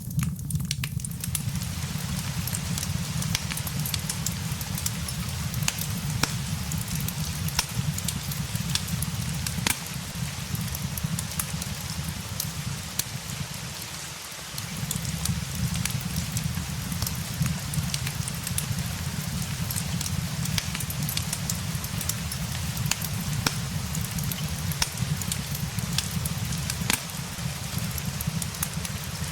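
Steady rain with a crackling fireplace: an even patter and hiss over a low rumble, with scattered sharp pops and crackles. The low rumble briefly fades about halfway, then returns.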